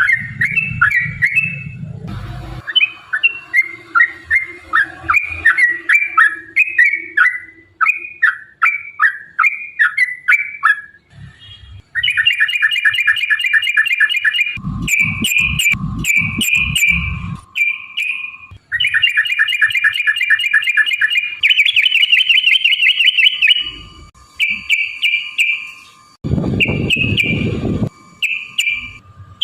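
Yellow-vented bulbul (trucukan) singing: quick runs of repeated falling chirps, then long, fast rolling trills (the "ropel") broken into shorter phrases near the end. Low rumbling bumps sound under the song twice in the middle and late part.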